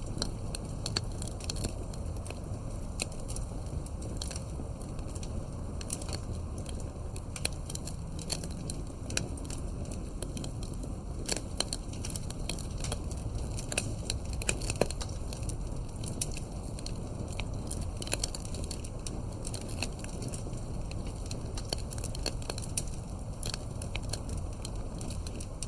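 Wood campfire crackling, with many irregular small pops and snaps over a steady low rumble, one sharper snap about halfway through.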